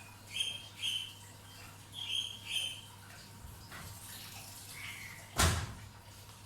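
A bird chirping: two pairs of short high calls, then a single loud knock about five seconds in, over a faint steady hum.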